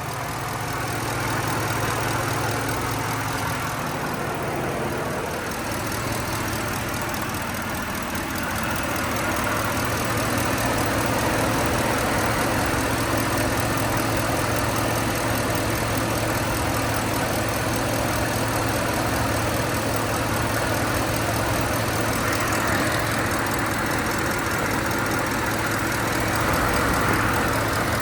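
Roush-supercharged 6.2-litre V8 of a 2013 Ford F-150 SVT Raptor idling steadily.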